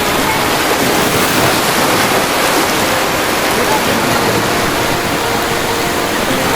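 Ocean waves breaking in a loud, steady rush of surf.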